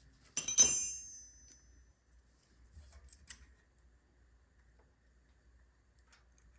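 A metal tool clinks against metal on the small engine's valve gear and rings briefly, followed by a few faint clicks of hand-tool work during a valve-lash adjustment.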